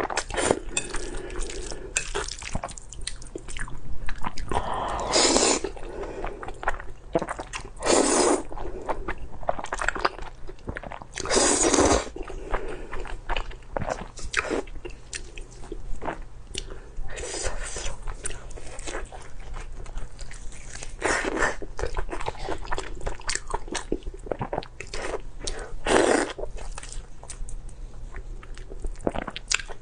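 A person eating: continual chewing and biting, with a louder, longer noisy sound every few seconds.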